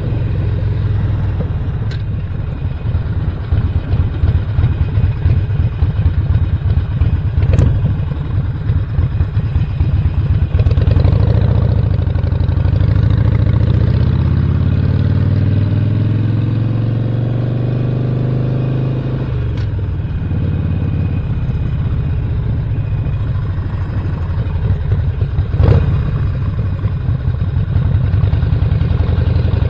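Stage 1–upgraded 2017 Harley-Davidson Roadster's air-cooled 1200 cc V-twin running under way. About eleven seconds in, its pitch rises steadily for some eight seconds as it pulls through a gear, then drops off sharply. Two sharp knocks come near the 8- and 26-second marks.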